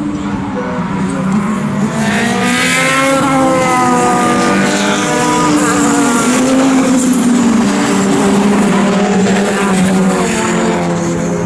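A pack of racing saloon cars with their engines running hard, several engine notes overlapping. One note climbs sharply about two seconds in, and the pitches rise and fall through the gears as the cars pass.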